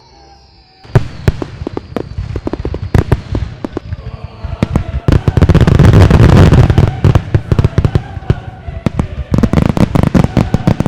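Fireworks going off: a rapid string of sharp bangs and crackles, with a thin whistle sliding down in pitch through the first half and a dense, loud volley of bangs in the middle.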